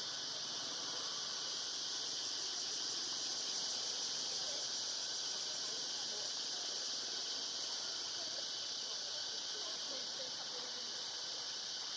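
Steady, high-pitched drone of insects calling in chorus, unbroken throughout, with faint short chirps underneath.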